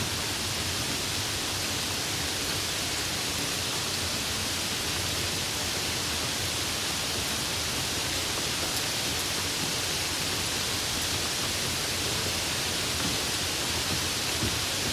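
Steady tropical rain falling, an even hiss with no let-up.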